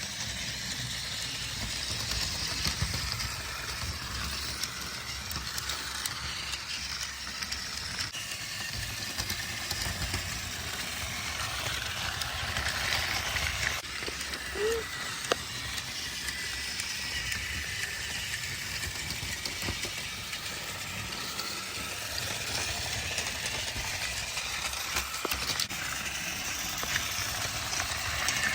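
Battery-powered Trackmaster toy train running along plastic track: a steady motor whir with scattered light clicks from the track.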